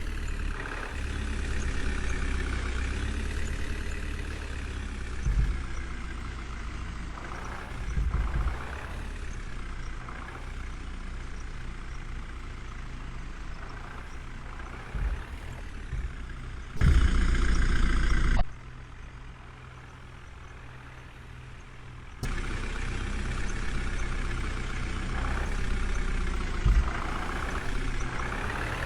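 Heavy diesel engine of earthmoving or farm machinery running and revving up and down, with a louder surge about seventeen seconds in that lasts a second or so.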